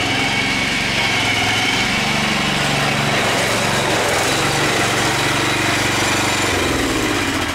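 Small gasoline engine running steadily at speed, then throttled down to a lower, slower note about six and a half seconds in.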